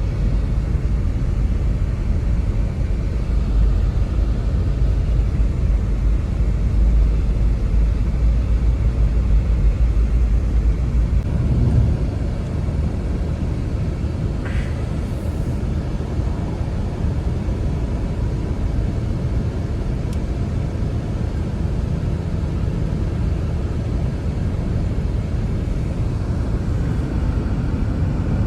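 Blizzard wind blowing steadily, a deep rumbling noise with no let-up, heaviest in the low end.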